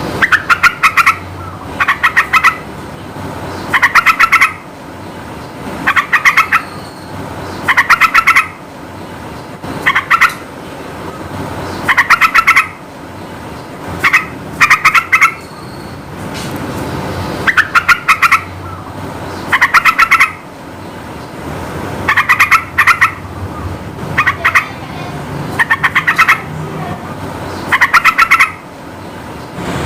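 Yellow-vented bulbul (trucukan) singing short, loud, bubbling phrases, one every two seconds or so, over a steady low background hum.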